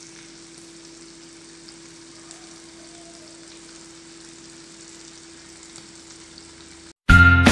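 Beef rendang sizzling in a wok: a steady, gentle frying hiss with a faint, constant hum underneath. Loud, cheerful music cuts in near the end.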